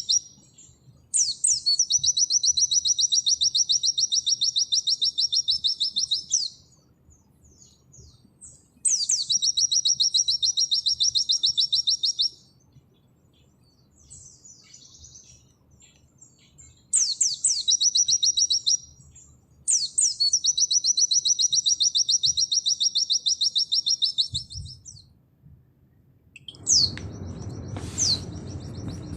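A white-eye (pleci) singing its 'nembak' song: four long, rapid, high trills of about three to five seconds each, each opening with a few quick downward-slurred notes, with short pauses between them. Near the end a steady background hiss comes in, with two single short chirps.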